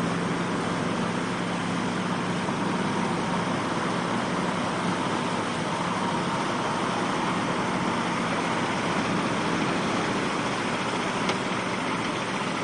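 A vehicle engine running steadily under an even rushing noise, with no sharp events.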